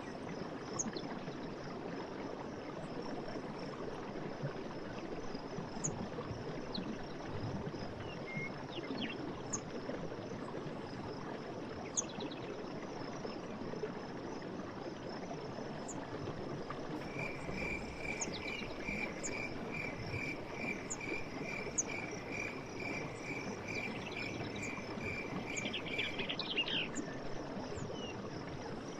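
Forest stream running steadily under a continuous high insect trill, with short bird chirps every few seconds. About two-thirds of the way in, an animal repeats one call note about twice a second for some nine seconds.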